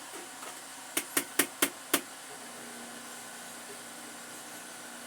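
Five quick, sharp knocks of something hard, about a second in and spaced a fraction of a second apart, followed by a faint steady hum.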